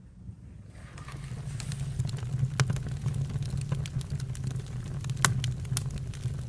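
Campfire burning: scattered crackles and sharp pops over a steady low rumble, fading in over the first second or two.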